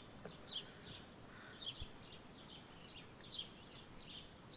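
A songbird chirping: a steady run of short, high chirps, each sliding down in pitch, about two or three a second.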